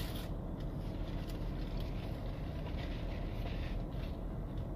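Steady low rumble of a car idling, heard from inside the cabin, with a few faint scratchy eating sounds.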